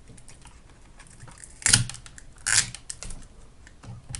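Small clicks and clatter of hand tools and parts as an e-bike battery pack is pulled apart, with two louder short noises about halfway through.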